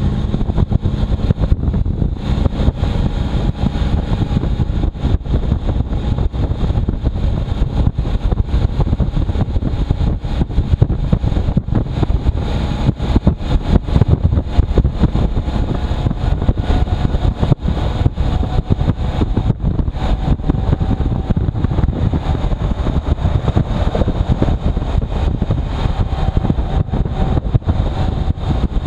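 Motorcycle riding on a very windy day: heavy wind buffeting the microphone over the engine running at a steady pace.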